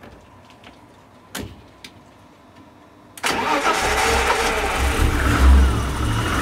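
A few faint clicks, then about three seconds in the BMW M20B25 2.5-litre straight-six starts at once, its first start in five years. It picks up briefly, then settles into a steady idle.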